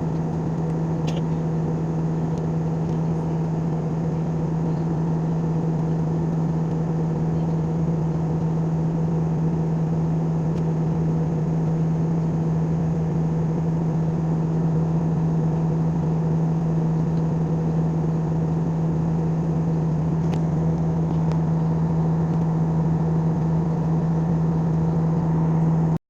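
Airliner cabin noise in flight: a constant low drone with a steady hum over an even rushing, starting and stopping abruptly.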